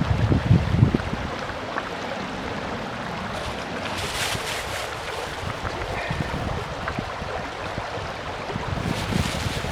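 Steady rushing of a mountain stream, with wind buffeting the microphone in the first second.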